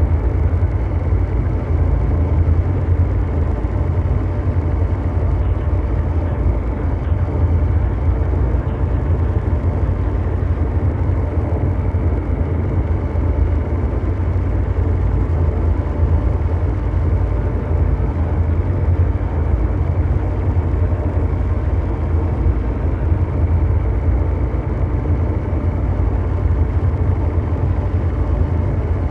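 Continuous mechanical drone noise: a deep, steady engine-like rumble under a brown-noise hiss, unchanging throughout, with faint steady hum tones running through it.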